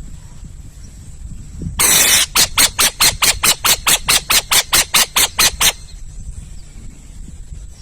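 An owl calling: a harsh hissing screech about two seconds in, running straight into a rapid series of short raspy hisses, about four a second, that stops abruptly about three and a half seconds later.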